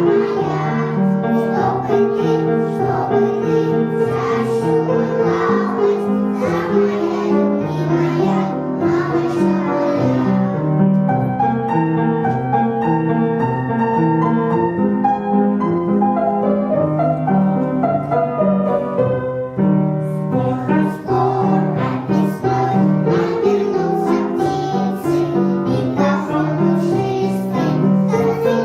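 Group of young children singing a song together over piano accompaniment. Roughly in the middle the voices drop out for an instrumental piano interlude of about eight seconds, then the singing comes back in.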